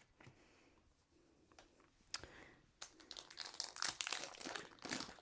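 Foil wrapper of a Pokémon card booster pack crinkling and tearing as it is handled and opened. It starts about three seconds in, after a few faint clicks.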